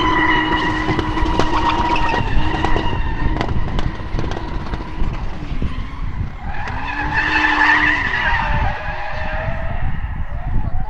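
Drift car sliding with its engine held at a steady high pitch under full wheelspin, tyres screeching. The note drops away about three to four seconds in. A drift car's engine and tyre screech swell again from about six and a half to eight seconds.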